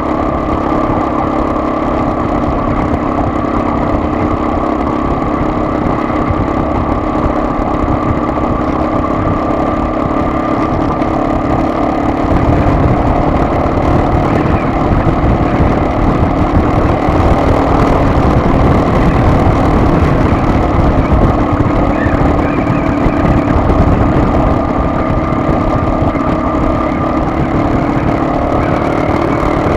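Car engine and road noise heard while driving: a steady hum with a low rumble, growing louder about twelve seconds in as the car picks up speed.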